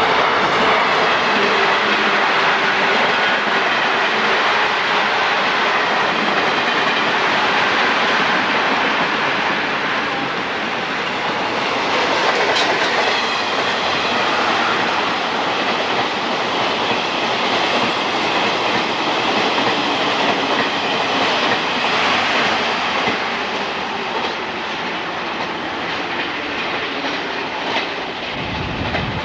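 Train passing on the track, a continuous rumble of wheels on rail with repeated clacks over the rail joints.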